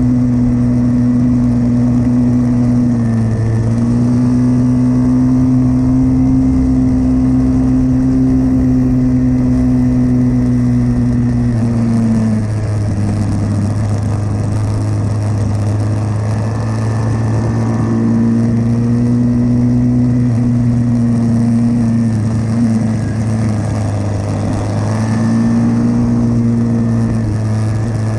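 Pit bike engine running hard at a steady high pitch. The note dips and recovers several times: about 3 seconds in, about 12 seconds in, and twice past 22 seconds.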